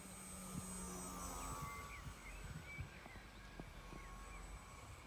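Faint whine of a small electric model aeroplane's motor and propeller, its pitch shifting slightly, over a low rumble of wind on the microphone.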